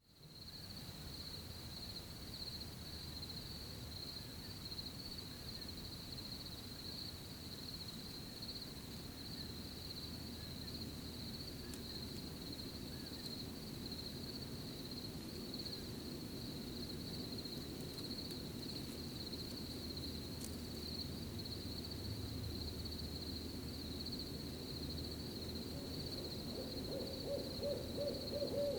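Crickets chirring steadily over low background noise; near the end an owl gives a quick run of hoots in a short trill.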